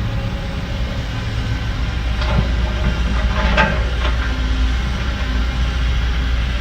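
Heavy diesel earth-moving machinery running with a steady low rumble. A few knocks and scrapes come between about two and four and a half seconds in.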